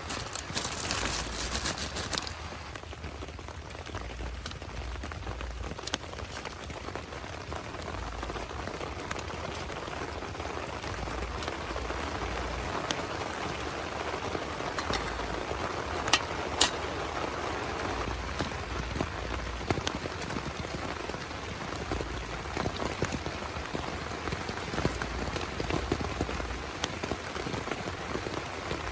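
Steady rain falling, a continuous patter with scattered sharper drop hits, one of them standing out about sixteen seconds in.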